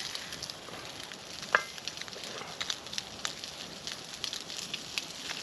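Sliced Spam frying in oil in a skillet, a steady sizzle with many small crackling pops. One sharper click about a second and a half in.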